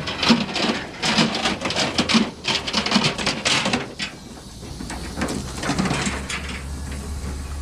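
Rapid clattering and clicking of metal, as of load chains and binders being worked on a flatbed trailer, for about four seconds. After that it goes quieter, leaving a steady low hum.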